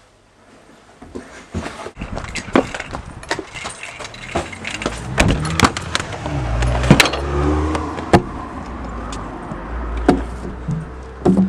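Clattering knocks and clicks over a low rumble that grows about five seconds in.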